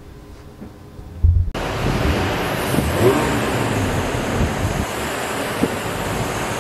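GMC SUV engine cranking briefly and catching about a second and a half in, then running steadily at idle: the engine starting once the key relearn has taught the anti-theft system the key.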